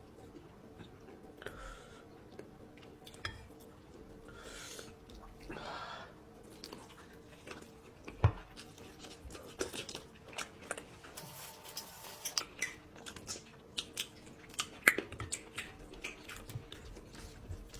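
Close-miked eating sounds of a person eating curry: chewing, wet mouth clicks and smacks, denser in the second half, with one sharp knock about eight seconds in. A faint steady hum runs underneath.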